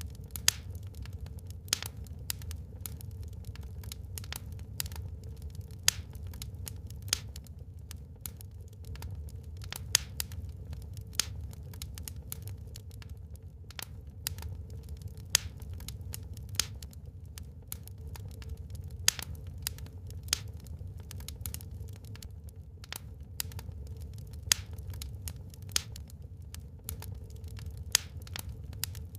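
Wood fire burning in a fireplace: irregular sharp crackles and pops, several a second with a few louder snaps, over a steady low rumble of the flames.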